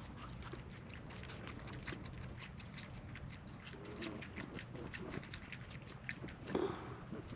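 Rapid light clicks and scrapes of a small wooden stick being handled and worked by hand.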